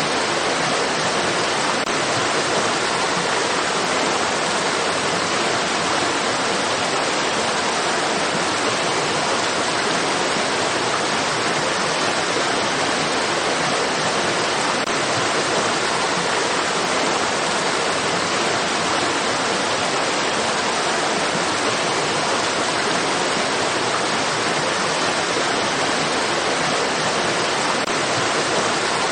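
Flowing water of a stream, a steady, even rushing that does not change.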